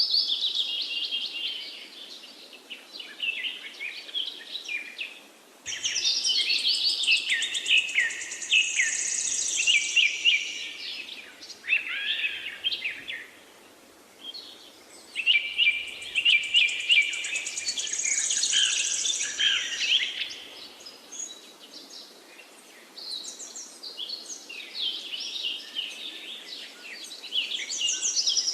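Songbirds singing: long phrases of rapid, high notes lasting several seconds each, coming in bursts with quieter stretches between.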